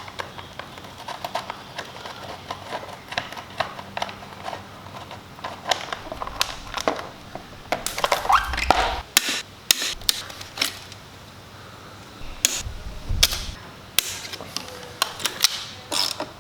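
Hand tools and metal parts clicking, clinking and knocking at irregular intervals as a motocross bike is taken apart by hand, with a few dull thuds of parts being handled.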